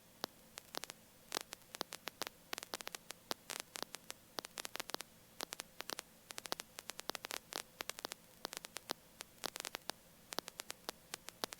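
Faint, irregular crackling static with a low steady hum on a helicopter headset intercom line. Nobody is talking, so only the line noise comes through.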